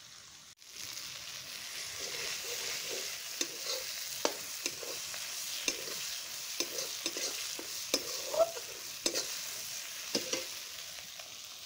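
Onion-and-spice masala sizzling in hot oil in a kadhai while it is stirred, with irregular scrapes and knocks against the pan. The sizzling picks up about half a second in.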